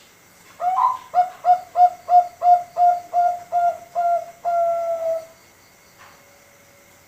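Five-month-old male zebra dove (Bangkok-line perkutut) cooing: one song of about ten short rhythmic coos, roughly three a second, that ends on a longer held note.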